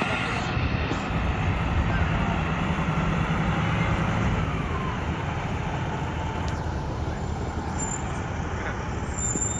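Heavy fire apparatus diesel engine running as the trucks pull away, a low drone that eases off about four seconds in, over street traffic noise.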